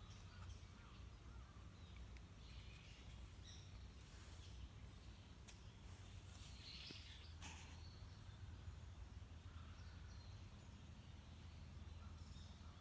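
Near silence: faint outdoor ambience with a few scattered faint bird chirps and a couple of soft clicks around the middle.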